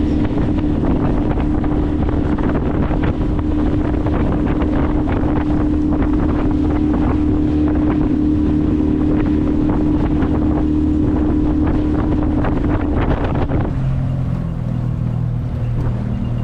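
Boat's outboard motor running steadily, with heavy wind noise on the microphone. About three-quarters of the way through, its steady tone drops away to a lower hum.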